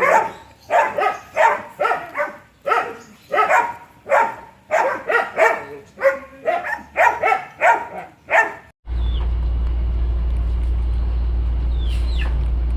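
A series of short, repeated animal calls, roughly two a second, which stop abruptly about nine seconds in; a steady low hum follows.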